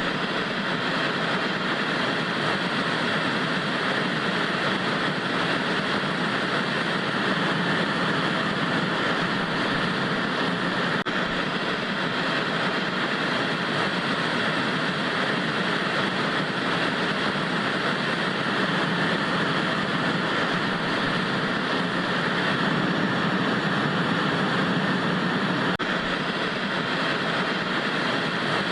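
Television static: a steady, unbroken hiss with most of its weight in the middle and upper range, cut off above about 10 kHz.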